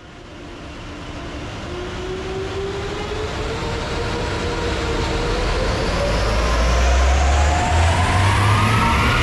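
BMW 128ti's 2.0-litre B48 turbocharged four-cylinder engine accelerating under full load on a rolling-road dyno during a power run, with the tuning box fitted. Its pitch and loudness rise steadily as the revs climb.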